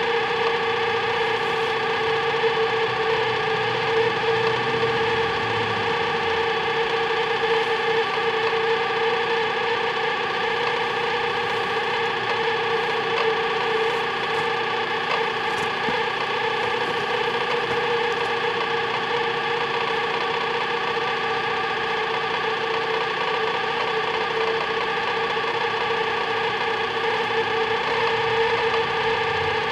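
Sharp Half-Pint microwave oven running: a steady, unchanging electrical hum with several high overtones.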